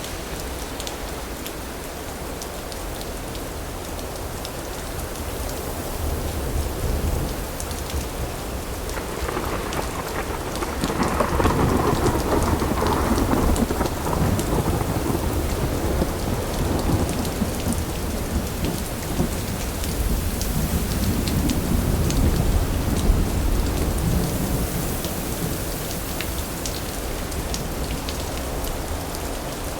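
Steady rain falling on surfaces, with a long roll of thunder that builds from about nine seconds in and rumbles on for more than ten seconds before easing.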